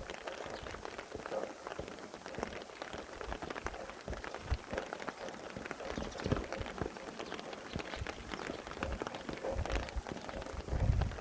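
Rain falling steadily, a dense patter of many small drop ticks. A low rumble of wind swells near the end.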